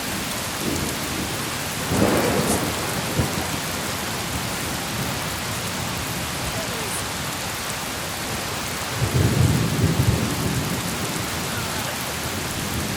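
Rain falling steadily on a tent, with two rolls of thunder: a short one about two seconds in and a longer, louder one about nine seconds in.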